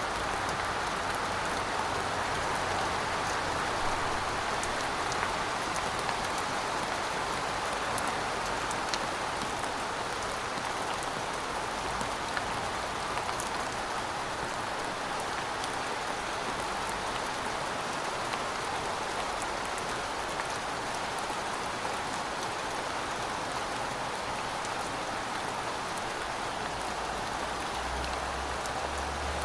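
Heavy rain falling steadily, an even wash of rain noise with scattered sharper drop ticks, and a faint low rumble near the end.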